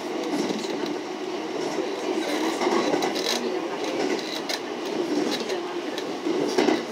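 Running noise of a passenger train heard from inside the car: a steady rumble of wheels on rail, with occasional sharper clicks.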